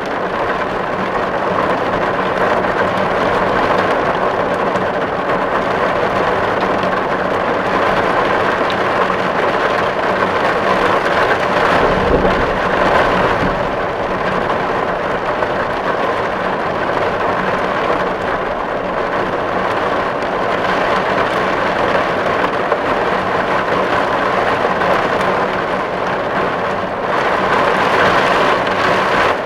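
Steady rain drumming on a metal tin roof, a dense even patter. A brief low rumble swells about twelve seconds in.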